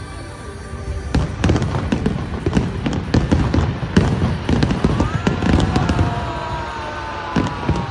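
Fireworks display with rapid bangs and crackling over low booms. About five seconds in, several drawn-out tones rise and then slowly fall.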